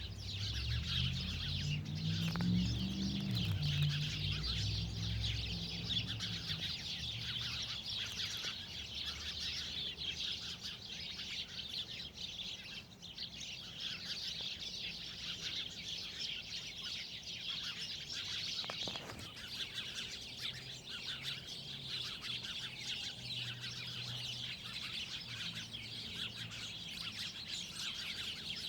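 Many small birds chirping continuously in a steady, dense chorus. A lower, wavering sound of changing pitch runs under it for the first few seconds and returns faintly about two-thirds of the way in.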